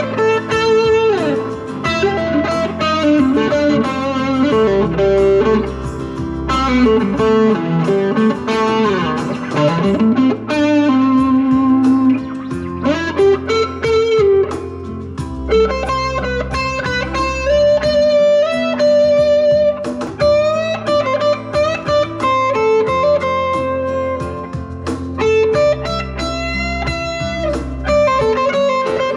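Squier Jaguar electric guitar with single-coil pickups, played through a Vox AC10 combo amp: improvised single-note lead lines with string bends, slides and held notes over a backing track of an A minor, F, C, G progression.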